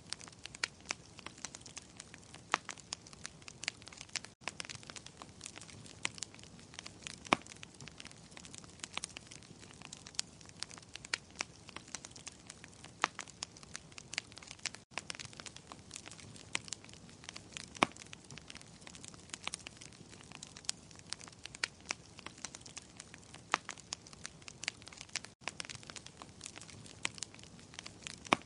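Wood fire crackling in a fireplace: a soft steady hiss with irregular sharp pops and snaps, several a second. It cuts out for an instant three times, about ten seconds apart.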